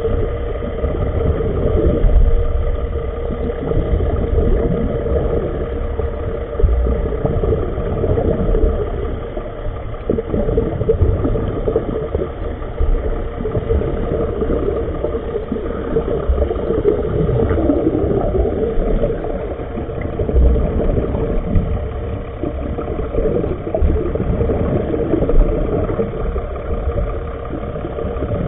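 Underwater noise from a filming camera: a steady low rumble with a faint constant hum, like an engine heard through the water.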